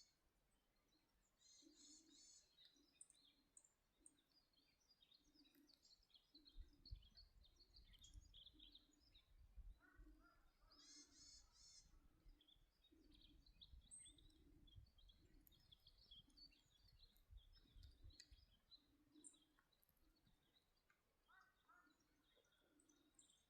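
Faint outdoor ambience of birds chirping and calling, with a soft low pulse repeating about every two-thirds of a second. A low rumble, like wind on the microphone, comes in about six seconds in and fades out about twelve seconds later.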